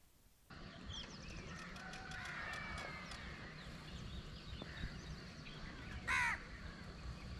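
Outdoor birdsong: several birds chirping and calling, with one loud, harsh call about six seconds in, over a steady low rumble.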